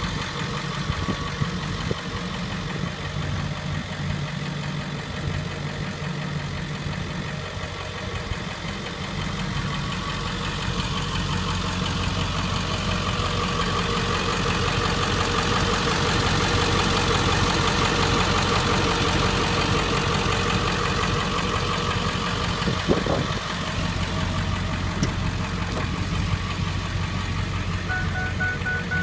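Ford 7.3-litre Power Stroke V8 turbo diesel idling steadily, growing somewhat louder through the middle, with one brief knock late on.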